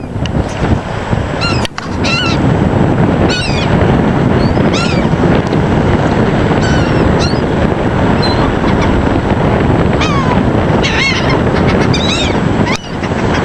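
Gulls calling, a string of short, high, arched cries at irregular moments, several bunched together, over a loud steady rush of low background noise.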